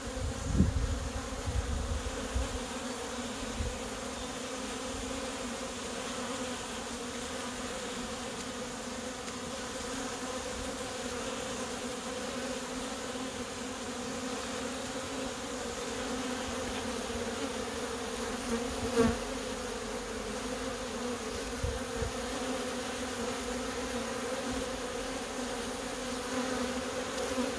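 Honey bees humming steadily in front of a hive entrance, a dense crowd of bees, drones among them, flying during orientation flights. A few brief low bumps from the hand-held camera come through, the loudest about two-thirds through.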